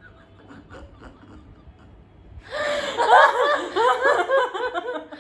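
A person bursting into loud, high-pitched laughter about halfway through, a quick run of 'ha-ha' pulses.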